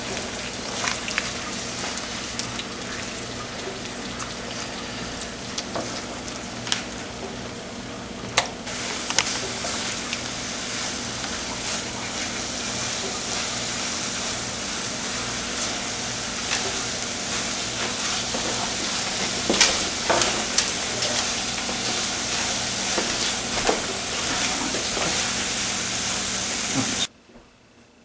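Eggs and Swiss chard sizzling in a nonstick frying pan as they are scrambled, with a spatula scraping and tapping against the pan now and then. The sizzle cuts off abruptly about a second before the end.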